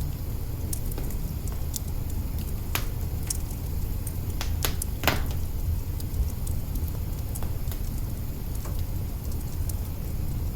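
Log fire burning in an open kitchen hearth: a steady low rumble of flame with scattered sharp crackles and snaps, and a quick run of louder pops about halfway through.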